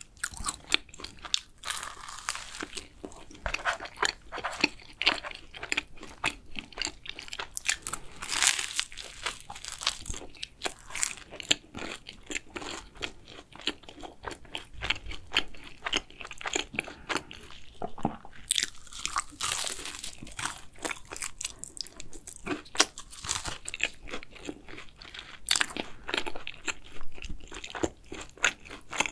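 Close-miked chewing and biting of a chocolate cruffin, the flaky laminated pastry crackling with many small, irregular crunches.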